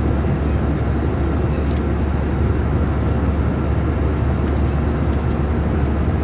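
Steady cabin noise of an Airbus A321 airliner in flight: an even low rumble of engines and airflow that holds level without change.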